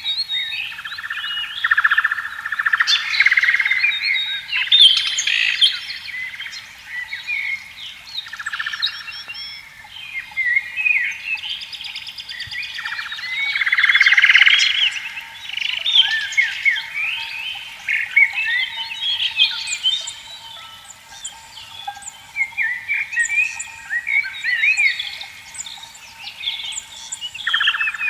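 Several birds chirping and calling with quick rising and falling notes, mixed with a frog chorus whose pulsed croaking swells up every few seconds.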